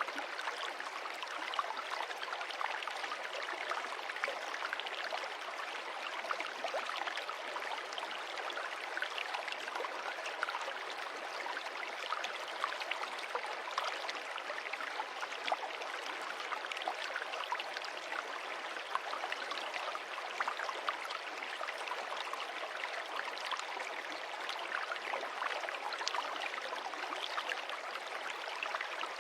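Water of a stream running and splashing over stones: a steady rush made up of many small splashes.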